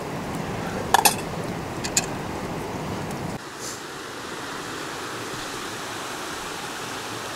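Steady rushing of a river, with two sharp clinks about a second apart. About halfway through, the sound cuts to a smoother, thinner rush.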